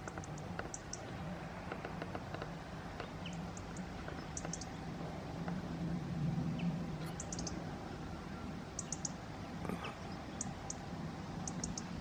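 Bird calls: short, very high, thin notes in quick clusters of two to four, repeated every second or so, over a steady low hum.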